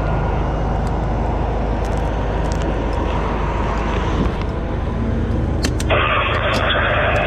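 Fire engine's diesel engine running steadily with a low drone. About six seconds in, a loud burst of radio static begins over it.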